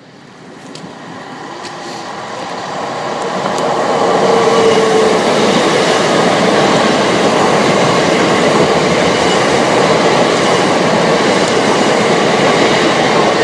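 c2c Class 357 electric multiple unit running past on snow-covered track, growing louder over the first four seconds as it comes alongside, then a steady loud noise of wheels on rail as the carriages go by.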